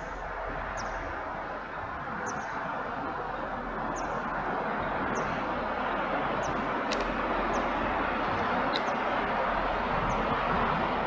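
A small bird calling with short, high, falling chirps roughly once a second, over a steady rushing background that slowly grows louder.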